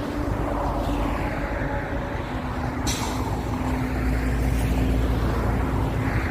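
Motorway traffic passing close by: a steady rumble of tyres and engines, with a heavier vehicle's engine hum swelling in the second half. A brief sharp hiss comes about three seconds in.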